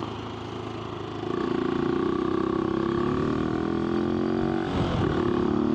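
AJP PR7's single-cylinder engine running under way, getting louder about a second in as the throttle opens, then easing slowly down in pitch with a brief change in its note near the end.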